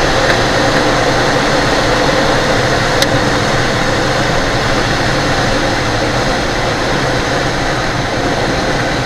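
Steady rushing noise in the cockpit of an ASG 32 Mi glider landing with its spoilers out, with one short click about three seconds in.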